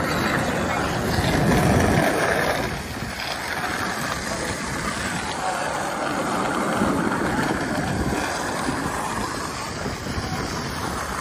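Motorcycle engines running in the street, swelling louder twice as bikes pass.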